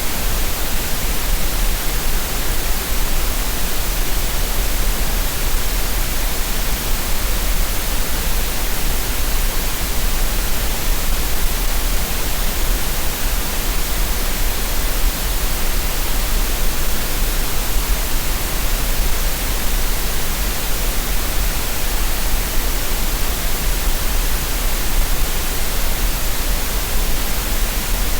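Steady green noise for relaxation: an even, unbroken hiss across the whole range with a strong low hum at the very bottom, never changing.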